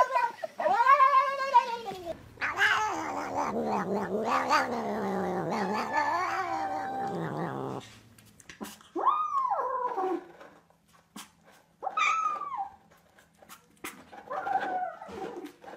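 Domestic cat vocalising in odd, drawn-out calls: a short arching call at the start, then one long wavering call of about five seconds, followed by three short separate calls with pauses between them.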